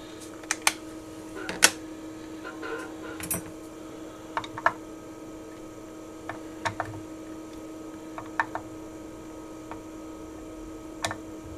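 Sharp clicks and light metallic taps from small tools and parts being handled on an electronics workbench, scattered irregularly, over a steady low hum.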